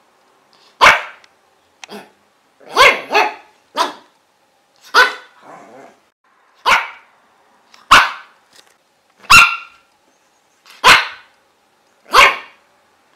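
A dog barking: about ten single, sharp barks, one roughly every second or second and a half.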